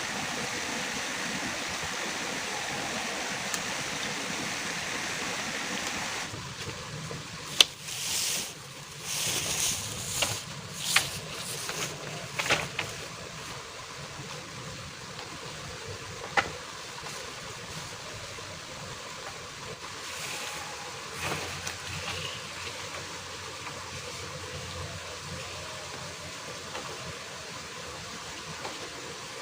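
Steady heavy rain, hissing evenly, then cutting off abruptly about six seconds in to a softer steady rain sound with scattered sharp knocks, clicks and short rustling bursts.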